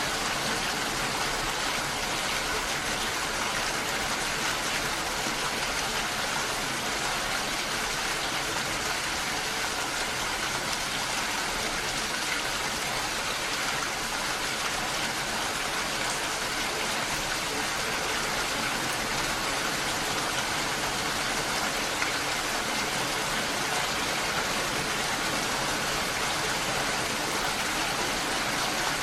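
Gentle rain with running water from a forest stream: a steady, even hiss.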